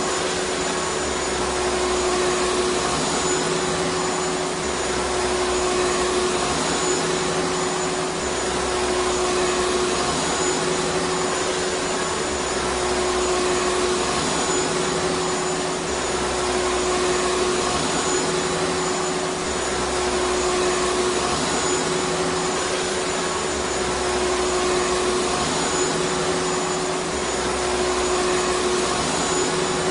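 Vacuum cleaner motor running steadily: a constant rushing hiss with a steady hum.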